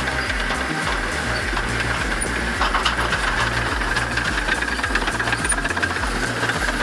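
Diesel engine of heavy earthmoving equipment running steadily under load, with a low rumble and a steady higher whine.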